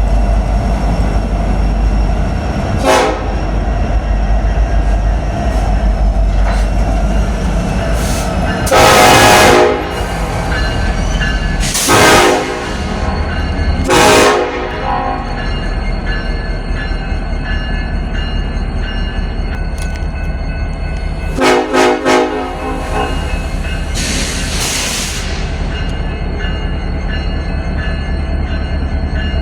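Diesel locomotive air horn sounding several blasts: a short one near the start, a long loud one about nine seconds in, then shorter ones. A steady low rumble of the train runs underneath.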